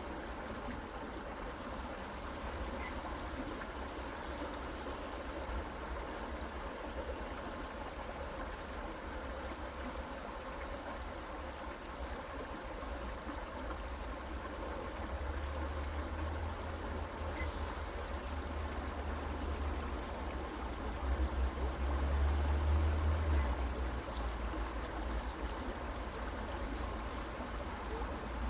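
Creek water flowing steadily, a constant rushing noise. Underneath it a low rumble swells from about halfway through and eases off near the end.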